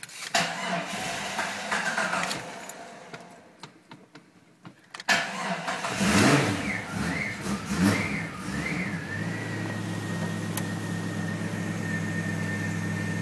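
The cold engine of a 1998 Jeep Grand Cherokee is being started after three months sitting with a dead battery. It turns over, then catches suddenly about five seconds in and revs unevenly, rising and falling, as it struggles. From about nine seconds it settles to a steady idle with a thin high whine.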